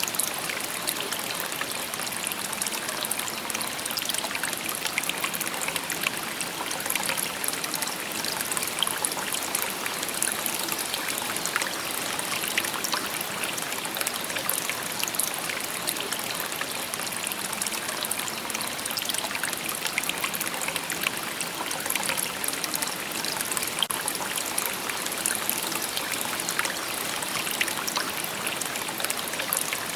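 A shallow river stream babbling and trickling steadily, with many small splashes and bubbling sounds.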